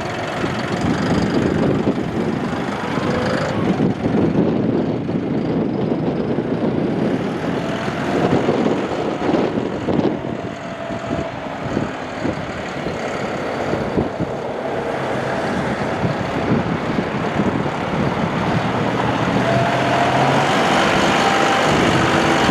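John Deere 5075E tractor's three-cylinder turbocharged diesel engine running steadily, getting louder over the second half.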